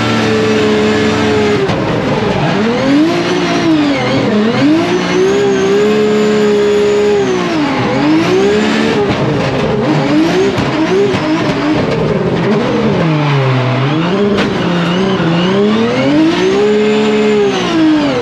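BMW M3 E92 drift car's engine revving hard through a drift run, its pitch climbing and falling again and again as the throttle is worked. There are deep dips about 4, 8 and 13 seconds in, with tyre noise underneath.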